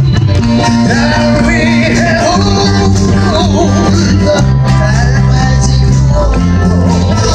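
Live band music: held bass notes and guitar under a wavering melody line.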